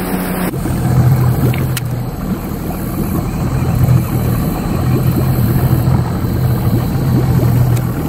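A small fishing boat's motor running with a steady low hum that swells and drops back several times, over a rough rushing noise.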